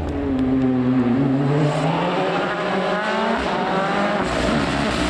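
Rally car engine working hard on a stage: the revs drop early on, then climb repeatedly as the car accelerates through the gears.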